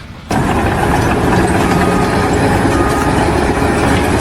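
A heavy engine running steadily, cutting in abruptly a moment after the start.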